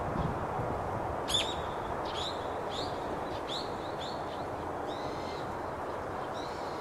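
A bird calling repeatedly, a run of short high calls that drop in pitch, roughly two a second, over a steady background rush.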